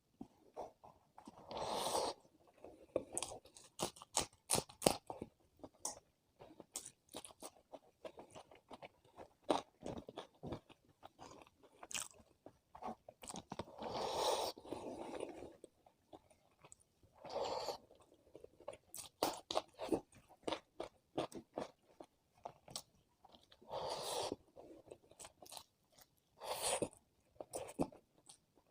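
A person chewing and crunching food close to the microphone: a run of small wet clicks, with several louder crunching bites.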